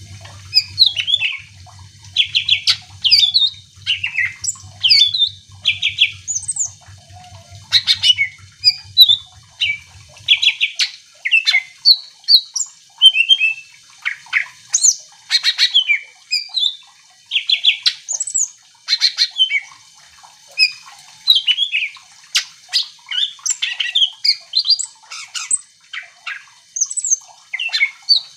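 Cucak ijo (green leafbird) in full song: a fast, varied run of whistled notes, chirps and trills in quick phrases with short gaps. A low hum runs under the song for about the first ten seconds, then stops.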